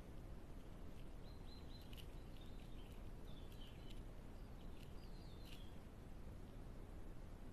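Faint bird chirps: several short, high calls with quick pitch slides, between about one and six seconds in, over a steady hiss.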